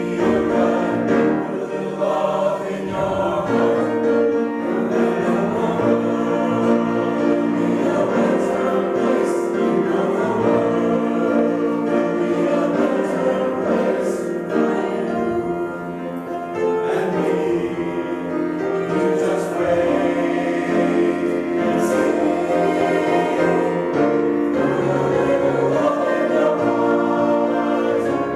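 Group of voices singing together in harmony, holding long notes that change every second or two.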